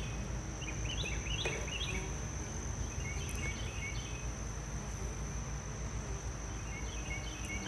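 Steady outdoor insect background: a constant high-pitched insect drone over a low hum, with short bursts of chirping about a second in, around three seconds and near the end.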